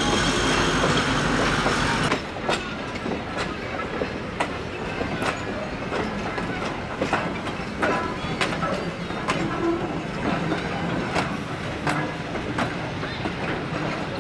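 Passenger train rolling slowly past, its coach wheels clicking over the rail joints about once a second over a steady rumble. A louder rushing noise fills the first two seconds and cuts off abruptly.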